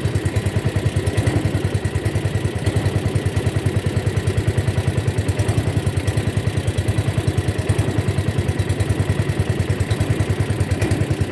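A small boat engine running steadily, with a fast, even thudding of about ten beats a second.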